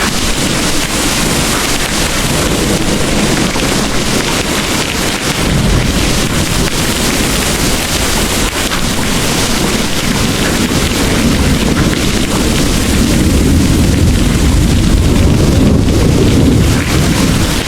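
Heavy rain pouring steadily, with a deep rolling rumble of distant thunder that swells in the second half.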